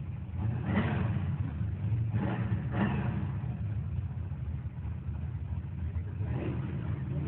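Car engines running and revving, swelling louder briefly about a second in, twice between two and three seconds, and again past six seconds.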